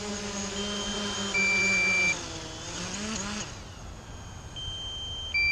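Quadcopter drone coming in to land under manual control, its propellers humming steadily. The hum wavers in pitch and then stops about three and a half seconds in as the motors shut down. A remote controller beeps twice in two-tone pairs, a higher tone followed by a louder lower one, about a second in and again near the end.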